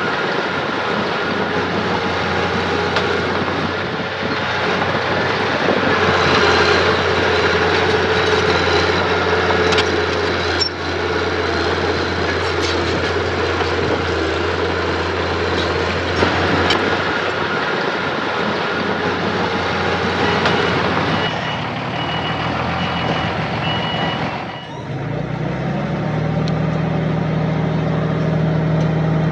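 Diesel engines of heavy earthmoving machinery running steadily, with a reversing alarm beeping for a couple of seconds about three quarters of the way through. Near the end the engine sound drops briefly, then settles into a steadier, lower running tone.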